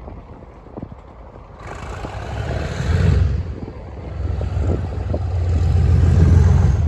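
English Electric diesel engine of a Class 37 locomotive working hard as it passes, a deep rumble building from about a second and a half in. It swells to its loudest near the end and then cuts off abruptly.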